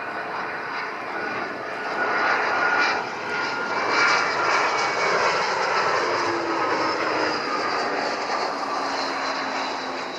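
Dassault Falcon 2000EX business jet's twin turbofan engines passing close by as it lands. There is a jet roar with whining tones that slide down in pitch as it goes past, loudest a few seconds in, then it starts to fade.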